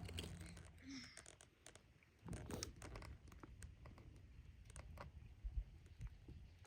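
Faint rustling and scratching with scattered light knocks and clicks.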